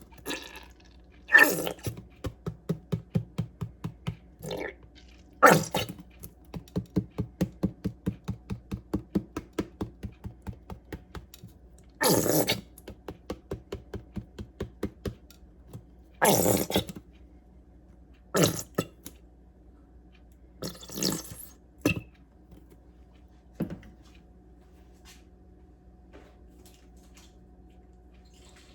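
Thick BBQ sauce glugging out of a bottle, a rapid run of gulps about four to five a second, broken by several louder sputtering squirts as the bottle empties. It goes quiet for the last few seconds.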